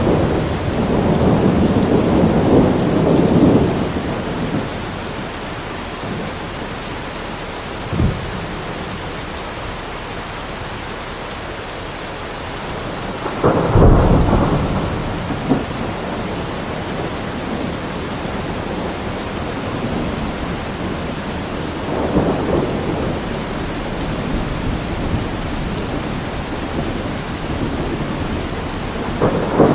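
Steady rain falling, with thunder: rumbling in the first few seconds, a short sharp crack about eight seconds in, a loud clap and rumble around the middle, and softer rumbles later on.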